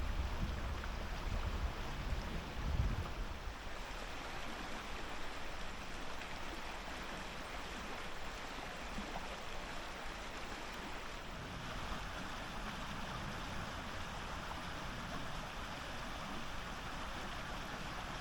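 Steady rushing of running water, with wind buffeting the microphone for the first few seconds.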